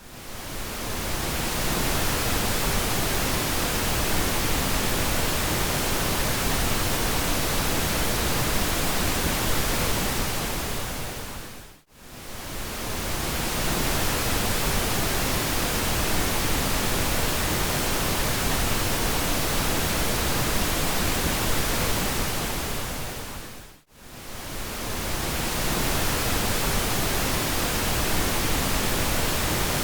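Steady pink noise, an even hiss spread from low rumble to high hiss. It fades in at the start and dips briefly to silence twice, about twelve seconds apart, each time fading straight back in.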